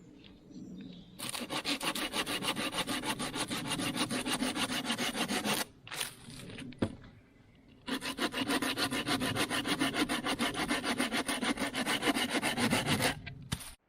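Hand saw cutting through wood with rapid back-and-forth strokes, in two long bouts with a short pause between them.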